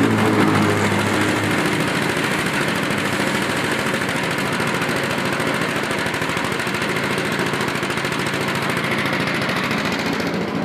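Homemade rice threshing machine running steadily with a loud, even mechanical clatter from its motor and rotating drum.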